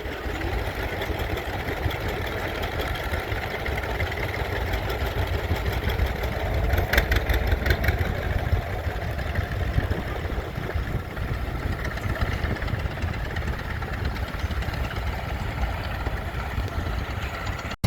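Caterpillar D6 crawler tractor's diesel engine idling steadily while it cools down, with a short rattle of clicks about seven seconds in.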